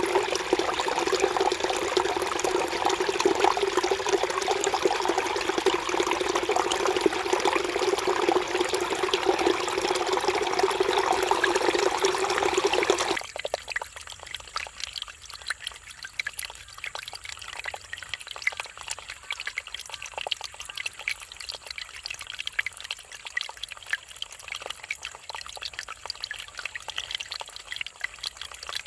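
Mountain stream running over rocks, a steady rushing of water. About halfway through it cuts abruptly to a much quieter, lighter trickle.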